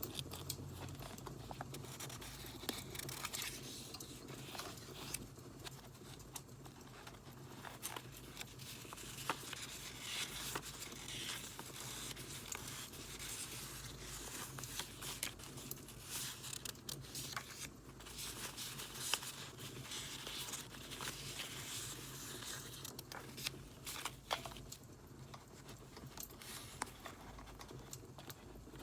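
Paper and stickers being handled, crinkled and torn for journaling, with scattered sharp clicks, over a steady crackling-firewood background.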